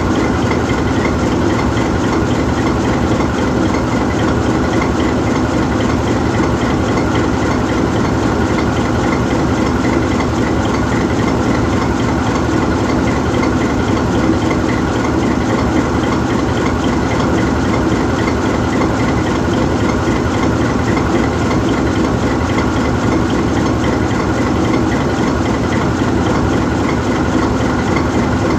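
GE U20C diesel-electric locomotive's 12-cylinder FDL-12 diesel engine idling steadily while the locomotive stands still.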